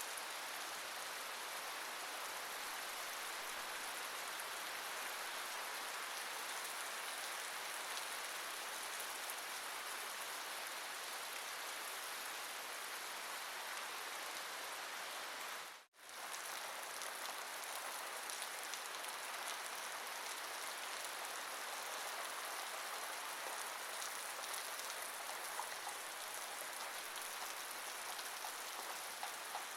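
Steady rain falling, a dense even hiss of drops, which cuts out for a split second just past halfway before resuming.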